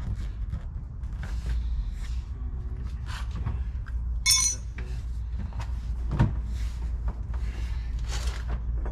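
Car interior trim pieces being handled and worked loose: scattered clicks and knocks, with a short metallic clink about four seconds in.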